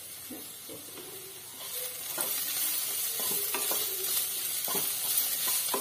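Chopped radish greens and radish pieces frying in a non-stick kadai. The sizzle grows louder from about two seconds in as a spatula stirs them, scraping the pan in repeated strokes.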